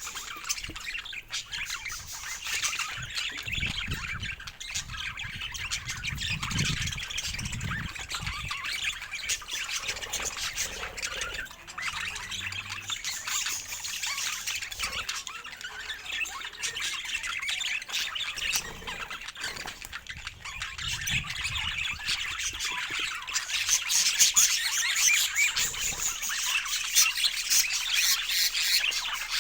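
Budgerigars chattering and warbling continuously, with squawks mixed in, growing busier near the end.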